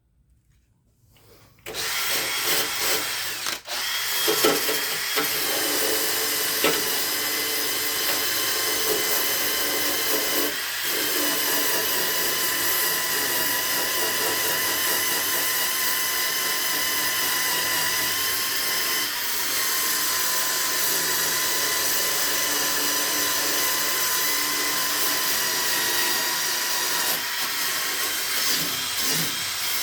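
Electric power tool starting up about two seconds in and then running steadily with a constant whine, working on hardware.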